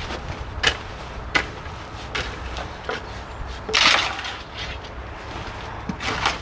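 A few short, sharp knocks or taps about a second apart, then a louder scraping rustle about four seconds in, over a steady low rumble.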